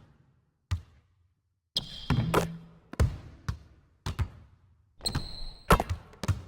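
A series of sharp knocks or bounces, about two a second, with two short high-pitched squeaks among them.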